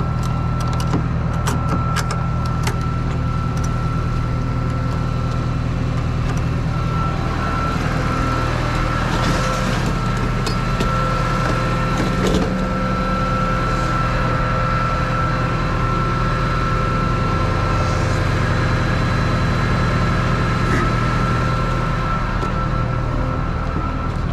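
Truck engine idling steadily, with a steady high-pitched whine over it and a few sharp clicks in the first few seconds.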